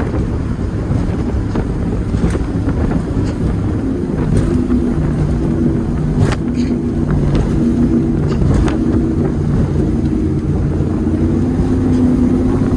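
Big-engined powerboats running at speed: a steady, loud low engine drone with wind noise on the microphone.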